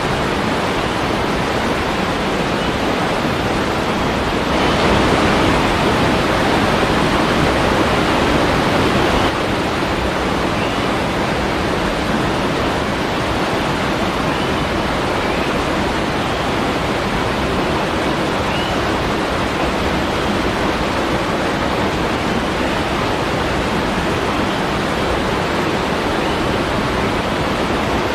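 Waterfall: steady rushing, splashing water, swelling louder for a few seconds about five seconds in and then settling back. A few faint, short high chirps show over the water later on.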